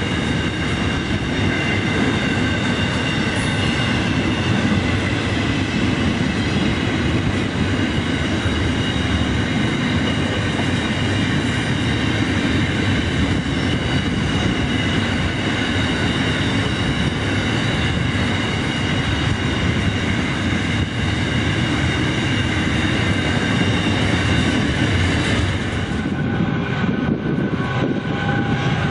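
Freight train wagons rolling past: a steady rumble of steel wheels on rail with several high, steady squealing tones over it. About 26 seconds in, the sound changes as the high squeal drops away and an approaching train takes over.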